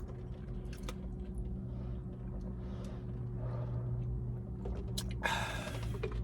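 Steady low electrical hum with a few faint clicks, and a short rustling noise about five seconds in.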